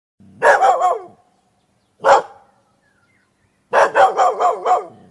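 Dog barking in three bouts: a quick run of about three barks, a single bark about two seconds in, and a rapid string of about six barks near the end.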